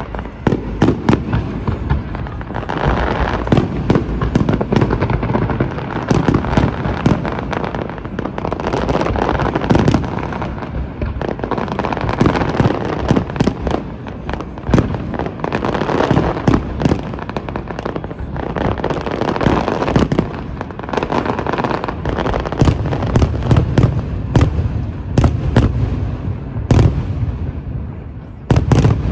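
Fireworks display going off continuously: a dense run of bangs and crackling reports over a steady rumble, with a quick cluster of sharp cracks near the end.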